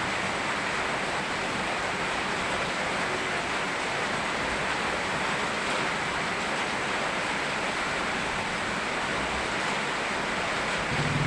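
Steady rushing noise of rain falling together with a flowing river. Near the end a low steady hum comes in underneath.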